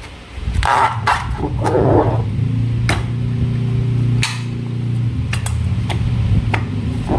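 Slime and a rubber balloon being handled: wet squishes and sticky clicks and pops, with a low buzzing hum for about two seconds in the middle.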